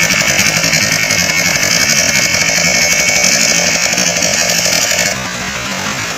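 Boat engine running steadily at high revs, a loud buzzing drone. Its higher part cuts off abruptly about five seconds in, leaving a lower, slightly quieter running sound.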